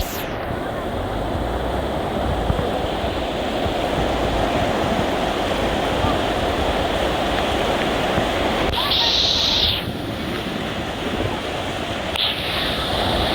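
Steady rushing noise of wind and rough water, with two short brighter hissing surges about nine and twelve seconds in.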